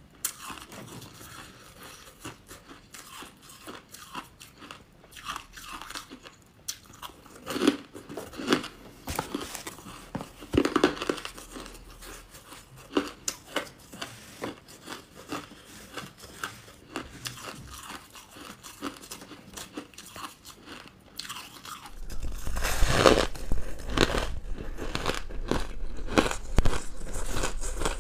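Close-miked crunching and chewing of crunchy buckwheat chunks: irregular bites and chews, with a few loud crunches before the middle. Past the middle the crunching turns louder and denser, with a low hum underneath.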